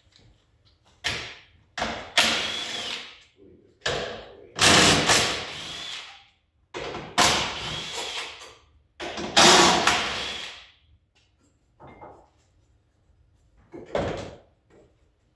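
A handheld power tool run in about seven short bursts, each starting suddenly and dying away over a second or two, the motor's pitch rising and falling within the longer runs.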